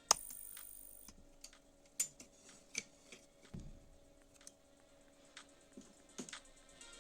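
Scattered light clicks and taps of small hard objects being handled, with a soft low thump about three and a half seconds in and a faint steady hum underneath.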